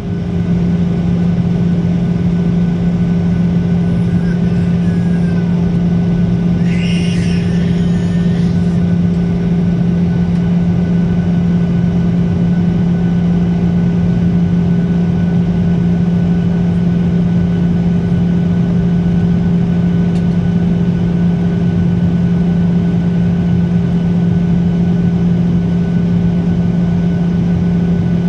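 Steady drone of a Ryanair Boeing 737 on approach: a constant low hum over engine and air noise, with a brief hiss about seven seconds in.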